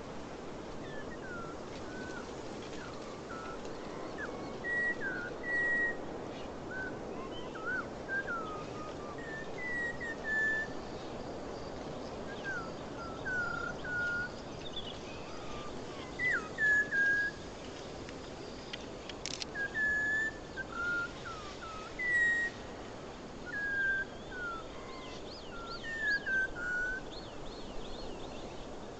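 Bird song: short, clear whistled notes and slides, repeated every second or so over a steady rushing background.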